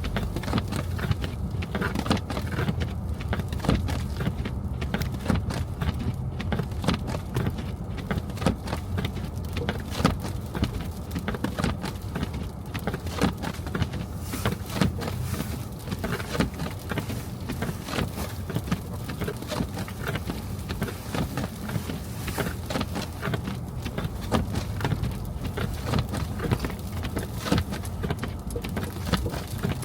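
A car driving on snowy city streets: a steady low rumble of engine and tyres, with frequent irregular ticks and crackles over it.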